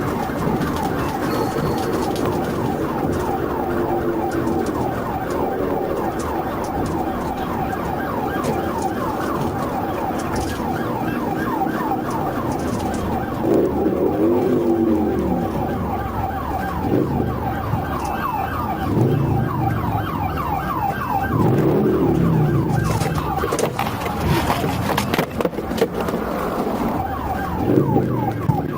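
Police car siren on a rapid yelp, sweeping up and down several times a second without a break. Underneath, a lower sound rises and falls in pitch a few times.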